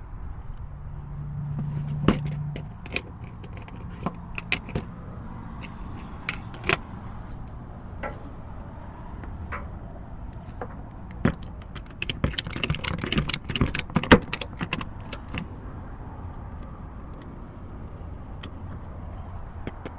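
Metallic clicks, knocks and clatter of gear being handled while a shore power cord is stowed, with a burst of rapid jingling clinks about twelve to fifteen seconds in, over a steady low rumble.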